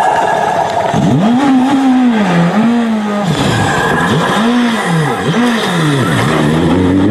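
Car engine revving up and down repeatedly, its pitch rising and falling several times. The sound cuts off abruptly at the end.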